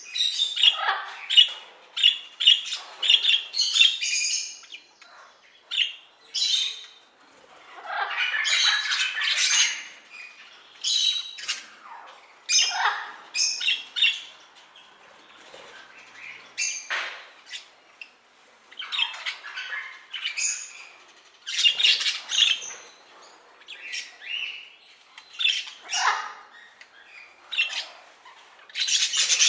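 Parrots calling: many short loud calls one after another, separated by short gaps.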